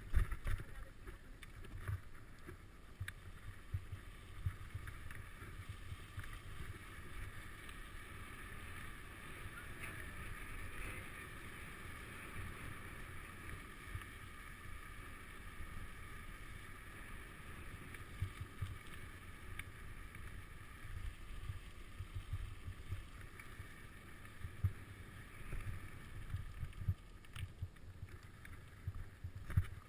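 Wind buffeting the microphone with uneven rumble and bumps while riding a bicycle, over a steady hiss of rolling noise.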